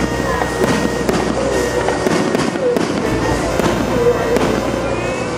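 Aerial fireworks bursting overhead in a rapid run of bangs and crackles, with music playing alongside.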